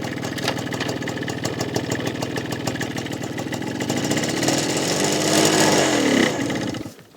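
Motorcycle engine running as the bike pulls away, revving up about four seconds in and easing back down, then the sound cuts off abruptly near the end.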